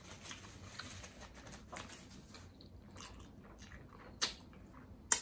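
Chewing and mouth sounds of a person eating a pretzel-bun double cheeseburger, with scattered small clicks and two sharp, louder clicks about four and five seconds in.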